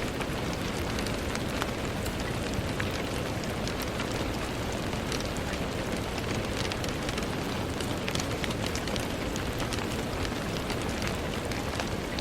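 Steady rain on a window: a dense, even hiss with a low rumble underneath and many small, sharp drop ticks scattered throughout.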